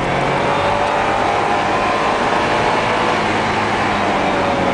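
Porsche 944S's four-cylinder engine pulling steadily under load, heard from inside the cabin over continuous road and tyre noise. Its pitch rises slightly and then eases off near the end.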